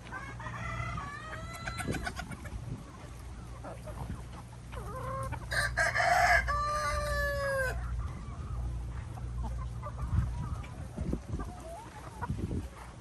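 Chickens clucking, with a rooster crowing about six seconds in: a loud call that ends in one long held note. A steady low hum runs underneath.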